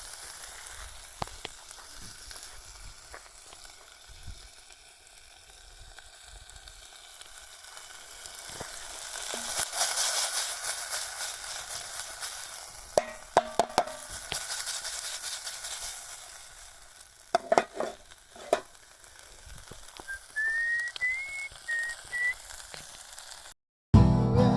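Wood bonfire burning: a steady hiss thick with small crackles, loudest about ten seconds in, with a few sharper pops later on. A brief thin whistle sounds near the end.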